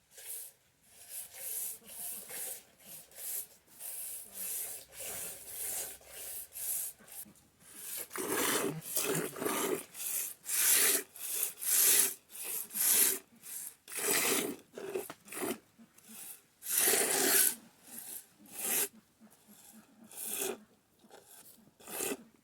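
Hand-milking a goat: rhythmic squirts of milk hitting a pail, about two a second, growing louder about eight seconds in.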